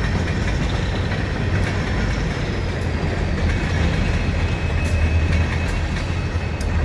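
Train rolling along the rails: a steady low rumble with a faint, thin, wavering high squeal from the wheels and a few sharp clicks from the track.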